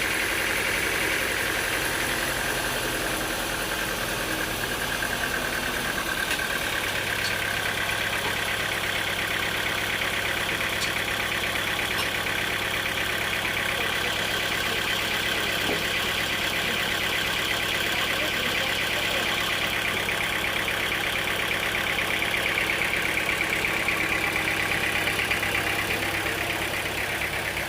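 Sawmill machinery running steadily, with a low hum that steadies in about seven seconds in.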